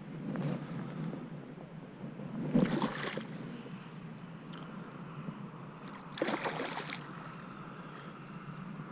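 Water lapping and sloshing around a kayak hull, with two louder splashing swishes about two and a half seconds and six seconds in.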